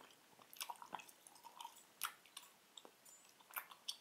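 Faint, irregular wet clicks and smacks of a mouth chewing a soft, sticky chewy fruit sweet.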